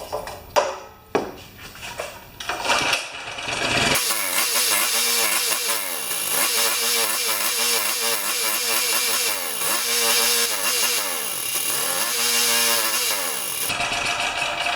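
Champion 3000-watt generator's small single-cylinder engine catching after a few knocks from the recoil-start pulls, then running with its speed dipping and recovering about every two seconds, a hunting run typical of the dirty carburetor it has.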